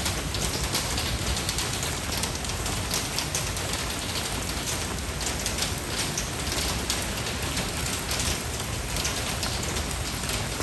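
Steady rain falling and pattering on a surface, dense fine drops.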